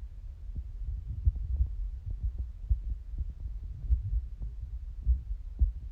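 Irregular low thumping and rumbling on the microphone, with frequent short knocks: buffeting and handling noise on a phone recording on the move.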